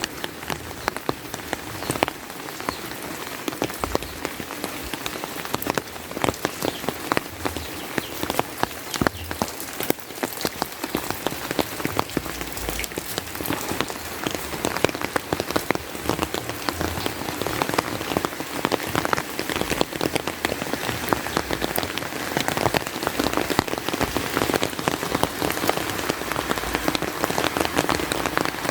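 Steady rain with many close, sharp drop strikes, growing a little heavier in the second half.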